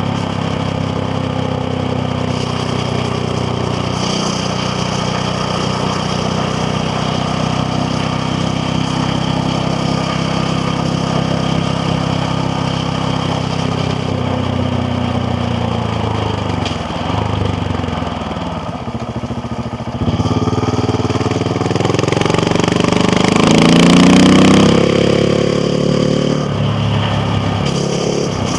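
KTM Duke 690R's single-cylinder engine running steadily on the road, then easing off with falling pitch. About two-thirds through, the throttle opens and the engine revs up with a steeply rising pitch, then backs off to a steady run near the end.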